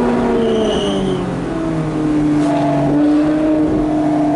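Ferrari 458 Speciale's straight-piped V8 engine running under way, its note falling over the first second and a half as it eases off, then holding steady and rising slightly.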